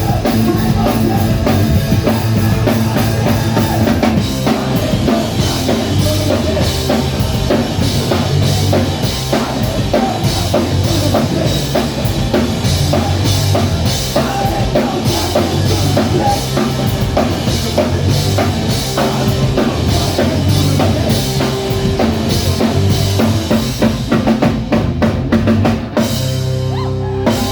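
Live rock band playing with the drum kit prominent: a dense run of kick and snare hits under bass and guitar. About a second before the end the drumming stops and a few notes ring on.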